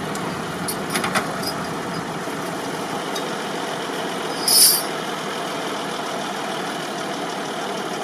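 Tractor engines running steadily under load, with a short, sharp hiss about halfway through.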